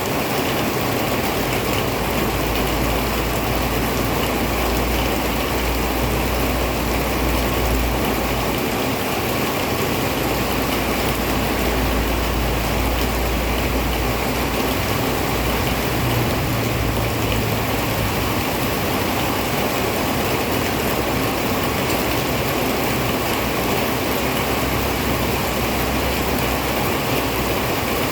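Heavy rain falling steadily, a dense even hiss. A low rumble swells and fades underneath a few times.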